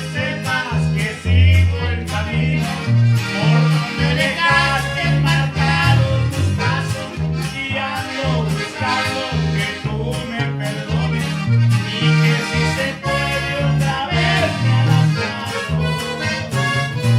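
Norteño band playing live: accordion carrying a quick, ornamented melody over a bass line that alternates notes on the beat.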